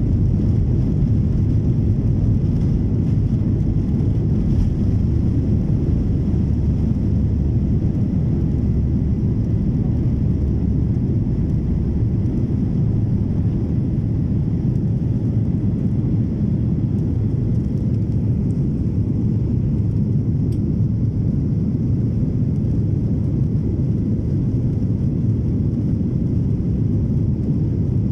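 Boeing 737-800 jet engines running at takeoff power, a loud steady low rumble that eases off only slightly toward the end.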